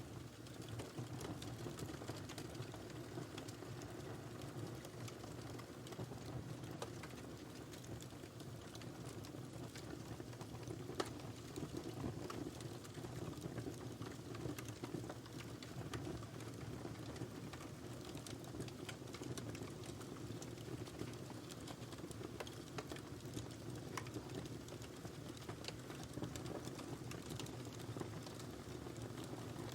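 Wood fire burning in a fireplace with a steady low rumble and frequent small crackles and pops, one sharper pop about eleven seconds in.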